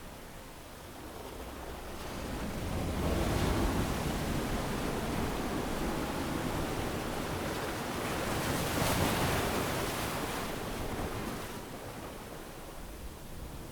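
Ocean waves breaking and washing up on a sandy beach, the surf swelling about three seconds in and again around nine seconds, then easing near the end.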